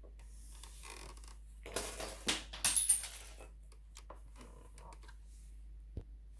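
Hands working on parts and tools inside an opened sewing machine, with rustling and scraping. A louder cluster of clattering comes about two to three seconds in, and a single sharp click comes near the end.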